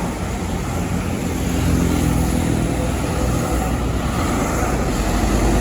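Heavy truck engine running as a truck passes on the road, a steady low drone with tyre and road noise, a little louder from about two seconds in.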